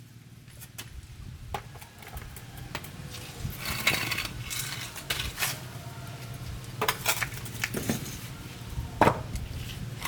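Metal tools and parts clinking and knocking against each other in irregular clusters during truck repair work, over a steady low hum.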